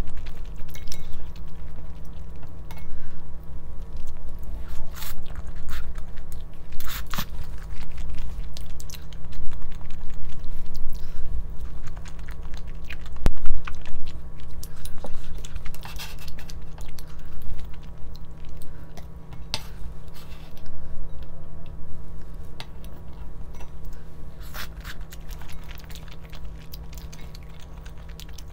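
A person chewing and crunching food close to the microphone, with scattered sharp crunches, over a steady low hum.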